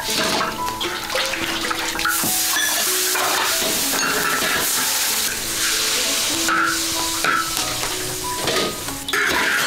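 Food sizzling in a large wok on a wood-fired stove, over background music with held notes. Water splashes as bowls are rinsed in a metal basin at the start and again near the end.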